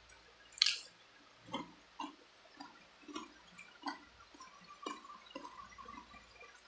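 Close-miked wet eating sounds of someone chewing and sucking on spicy chicken feet: a loud, sharp noise about half a second in, then irregular wet smacks and clicks every half second or so.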